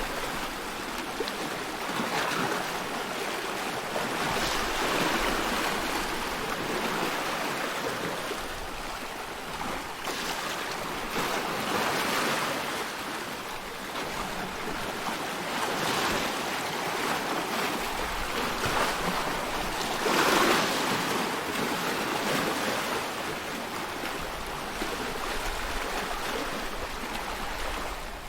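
Ocean waves washing in: a continuous rushing surf that swells and eases every few seconds.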